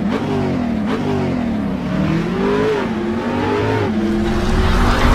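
Motorbike engine revving: a few quick blips up and down, then a longer rise and fall, settling to a steadier pitch near the end.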